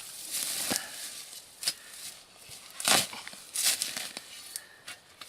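A spade digging into forest soil and leaf litter: irregular scrapes and crunches, the loudest about three seconds in.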